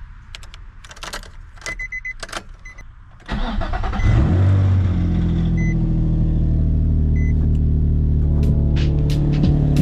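Nissan 350Z's 3.5-litre V6 cranking and firing up about three seconds in, flaring briefly and then settling into a steady idle. Before it starts there are a few clicks and some short electronic beeps.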